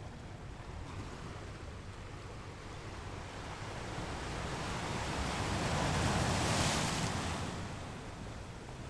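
Ocean waves washing onto a shore: a steady hiss of surf that swells to a peak about six or seven seconds in as a wave breaks, then falls back.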